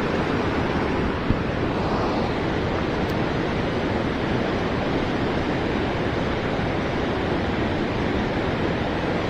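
Steady rush of river rapids: white water pouring below a spillway.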